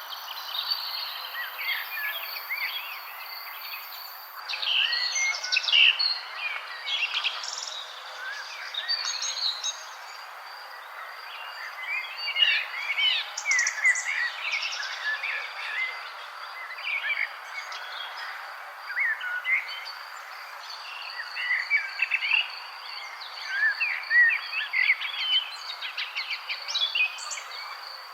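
A chorus of small birds chirping and twittering in quick, overlapping short calls, over a steady background hiss. A fast, even, high-pitched pulsing trill runs underneath most of the time.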